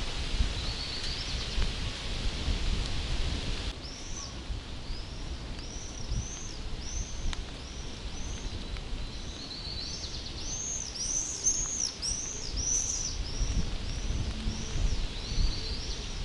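A bird sings a long run of short, arched chirps, about two a second with a few quick trills, starting about four seconds in, over a steady low rumble. A hiss stops abruptly just before the singing begins.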